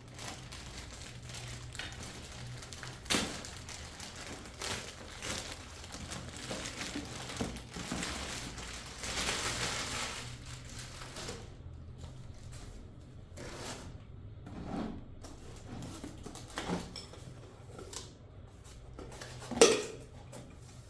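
Hands unpacking a drip coffee maker: packaging rustling and crinkling, with scattered knocks and clinks as its parts are handled and set down, and one loud knock near the end.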